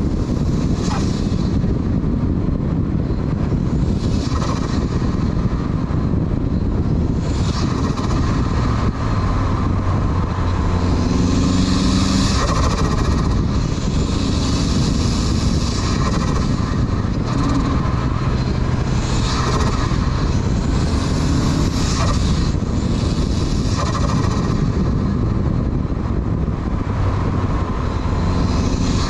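Turbocharged 1.8-litre four-cylinder of a 1994 Mazda Miata, with a Garrett GT2554R turbo, driven hard through a run of bends. The turbo whistle rises in stretches on the throttle. A short hiss of released boost from the blow-off valve comes each time the throttle is lifted, about nine times, over steady road and wind noise.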